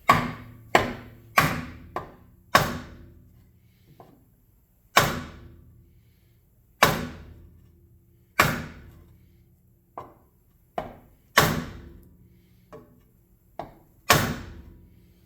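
Big hammer striking the bent lip of a heated cast-aluminium motorcycle rim to straighten it. There are about fifteen blows at uneven spacing, some hard and some light, and each one rings briefly.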